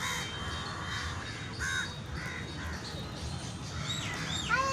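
Crows cawing repeatedly, a string of short harsh calls that come thicker near the end.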